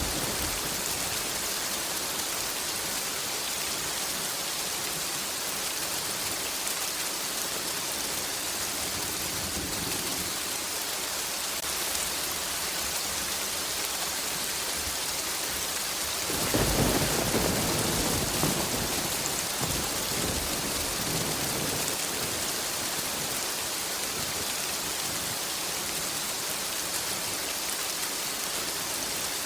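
Steady rain falling, with one roll of thunder rumbling for two or three seconds a little past halfway.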